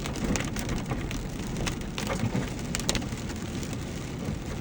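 Vehicle rolling slowly over a storm-littered road: a steady low rumble with scattered sharp crackles and ticks from the tyres on gravel and debris.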